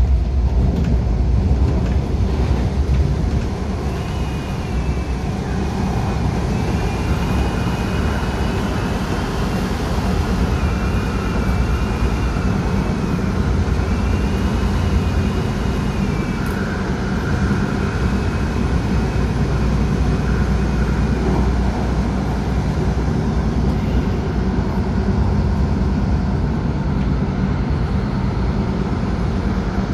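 Inside an MTR A-Train electric multiple unit under way: a steady low rumble of wheels and running gear. From about four seconds in until about twenty seconds, a high, wavering whine runs over it.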